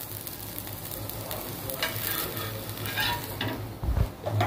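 Dosa batter and oil sizzling on a hot dosa tawa, with a spatula scraping across the griddle a few times and a low knock near the end.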